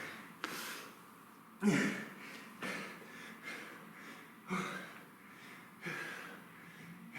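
A man breathing hard from exertion, with short forceful exhales about once a second, some with a slight grunt in them.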